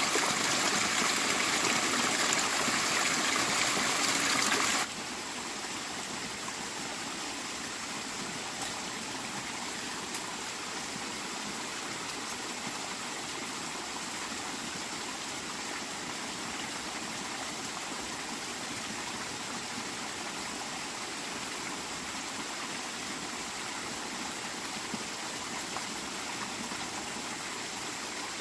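Running water, a steady rushing flow. It is louder and brighter for the first five seconds or so, then drops suddenly to a softer, even flow.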